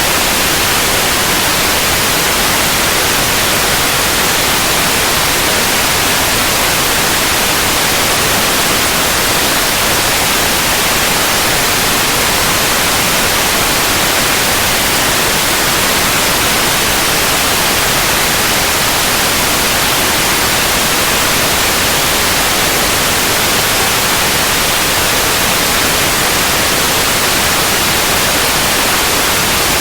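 Continuous white noise: a steady, even hiss, strongest in the high frequencies, with no change throughout.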